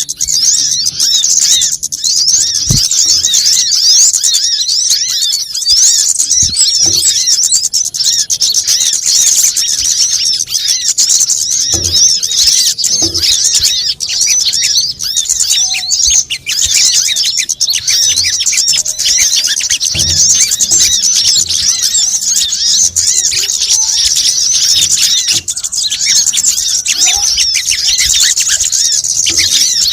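Dense, unbroken chatter of rapid, high chirps and twitters from small birds: a bird-lure recording of kemade, sogon and coconut sunbird (kolibri kelapa) calls, played loud. A few faint low thumps sit beneath it.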